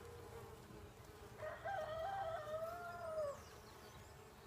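A rooster crows once, a wavering call about two seconds long that starts about a second and a half in and falls away at the end. The low steady hum of honeybees at the open hive runs underneath.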